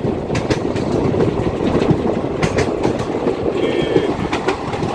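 Passenger train running at speed, heard from an open coach door: a steady rumble with irregular clicks of the wheels over the rails, and a brief high tone about three and a half seconds in.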